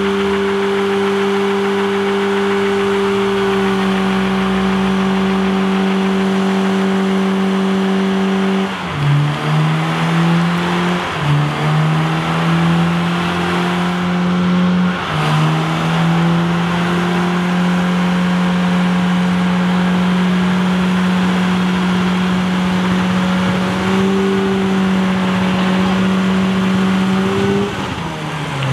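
Car engine held at high, steady revs for long stretches, dropping briefly and picking up again about nine, eleven and fifteen seconds in, and falling away at the end.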